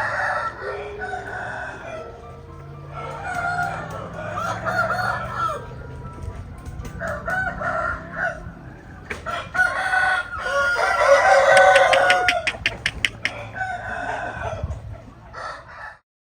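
Roosters crowing several times in succession, with some clucking between the crows; the loudest crow comes about eleven seconds in.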